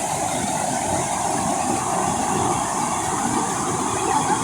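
Steady rushing of falling water from a waterfall, an even, unbroken noise.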